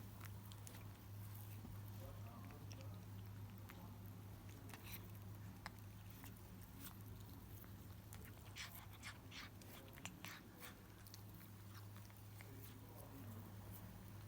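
Cats chewing food: faint, irregular crunching clicks, most frequent about two-thirds of the way through, over a steady low hum.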